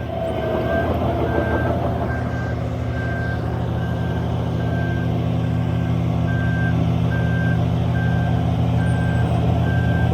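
A heavy diesel earthmoving machine's engine running steadily under a reversing alarm that beeps evenly a little more than once a second.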